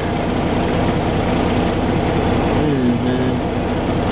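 Peterbilt 379 semi truck's diesel engine idling steadily, with a short falling tone about three seconds in.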